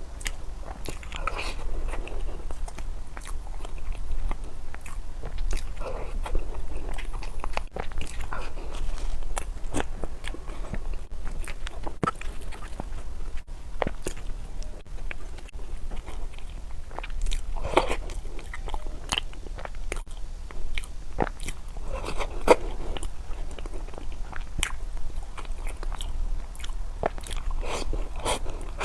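Close-miked chewing and biting of food, with irregular crunches and wet mouth smacks. A steady low hum runs underneath.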